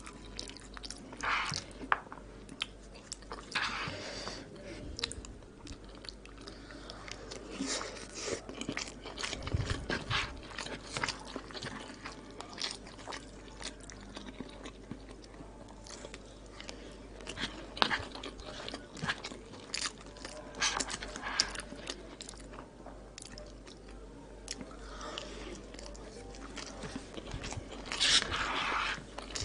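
Close-miked mouth sounds of a person chewing and biting mouthfuls of koshari: irregular wet smacks and sharp little clicks. Near the end comes a louder, denser stretch as the spoon digs into the paper bowl.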